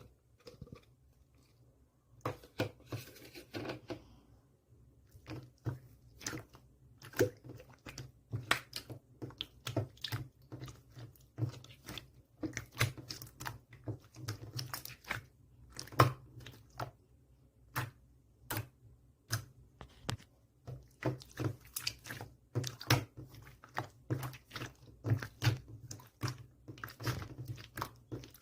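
Clear slime squeezed and poked by hand, giving crisp, irregular clicks and pops of trapped air, several a second, beginning about two seconds in.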